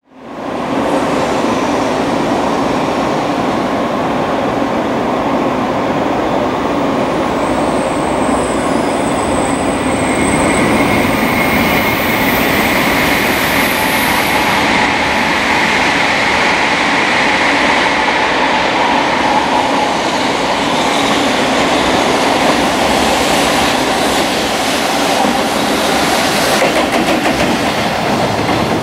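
Container freight train hauled by a JR Freight EF210 electric locomotive running past at speed, giving a loud, steady rumble and clatter of wheels on rail. A thin high whine rises over it partway through.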